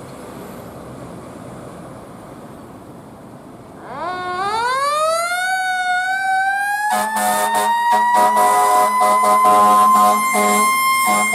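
Fire truck's mechanical siren winding up about four seconds in, rising in pitch and levelling off into a steady high wail. From about seven seconds in, repeated air horn blasts sound over the siren, the loudest part. Low traffic rumble before the siren starts.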